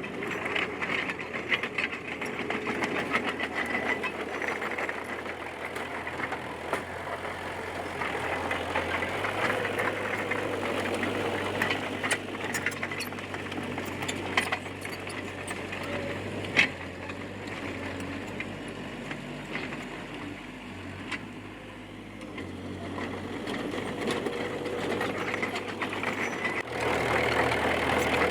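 A Komatsu D20P crawler bulldozer's diesel engine running, its note shifting as the load changes and growing louder near the end, with scattered clicks.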